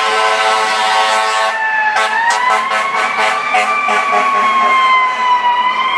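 Fire truck on an emergency run: a steady horn blast that cuts off about a second and a half in, followed by a siren wailing, slowly rising and falling in pitch, with a quick run of short pulses partway through.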